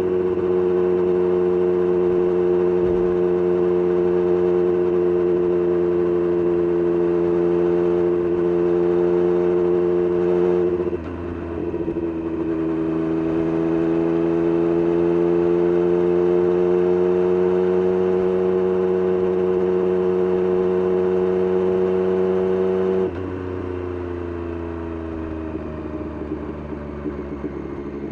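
Triumph Street Triple RS 765 cc inline-three engine through an SC-Project S1 exhaust, ridden under steady throttle with wind noise. About eleven seconds in the note breaks briefly and drops, then slowly climbs; near the end the throttle closes and the engine note falls and quietens.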